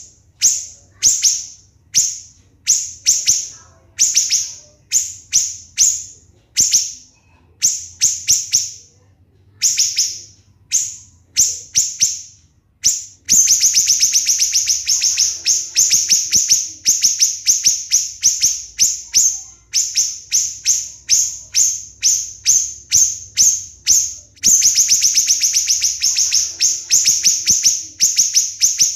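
Siri-siri bird singing shrill, sharp notes: spaced, single notes about one to two a second at first, then about halfway through a fast, close-set volley of notes, the rapid 'tembakan' bursts prized in songbird training.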